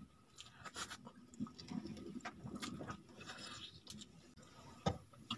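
Faint close-up eating sounds of someone chewing a mouthful of rice and sucking it from her fingers: scattered soft wet clicks and smacks. One sharper click comes near the end.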